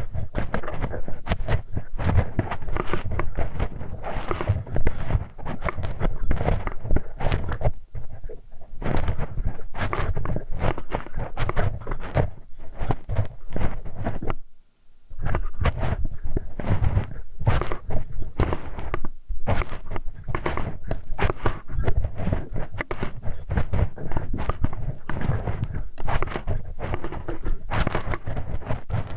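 Close-up ASMR ear-cleaning sounds: a metal hex wrench scraping, rubbing and knocking in the microphone's ear, a dense run of rustles and clicks that stops briefly about halfway through.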